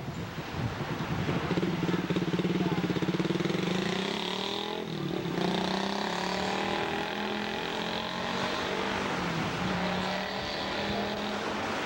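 Motor engine running steadily, its pitch shifting and dipping briefly around the middle.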